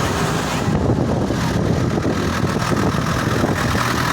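Tractor engine running steadily close by, a continuous low engine sound.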